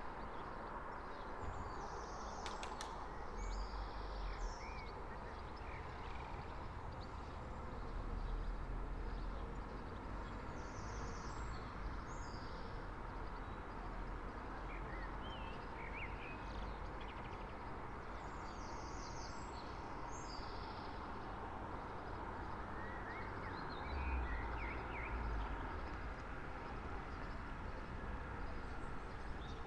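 Early-morning street ambience: a steady hum of distant traffic with songbirds chirping on and off. Low rumbles from passing vehicles swell twice, about a third of the way in and again near the end.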